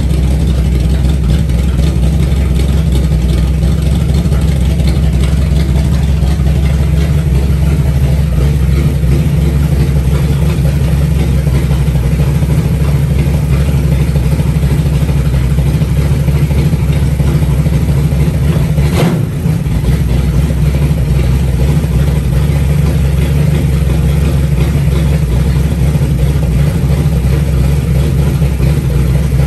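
Freshly built 360 stroker V8 running steadily on its first start-up, with a deep, even exhaust note. About two-thirds of the way through there is one short break, a click with a brief dip in level.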